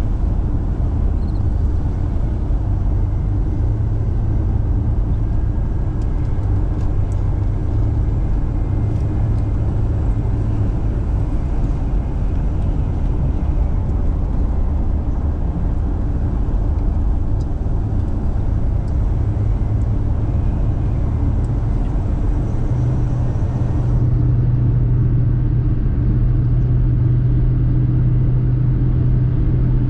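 Car on the road: a steady low rumble of engine and tyre noise, with a low hum that grows stronger about three quarters of the way through.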